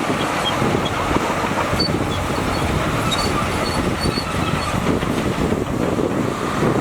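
Shantui crawler bulldozer at work: diesel engine running steadily with the tracks clanking, and short high squeaks repeating every second or so.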